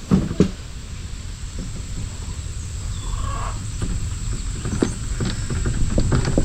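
A low rumble with a couple of sharp knocks at the start and scattered rustling and clicking that builds toward the end. About three seconds in comes a short animal call.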